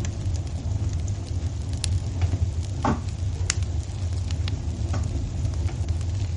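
Wood fire burning in a fireplace: a steady low rumble with irregular sharp crackles and pops, and a short hiss about three seconds in.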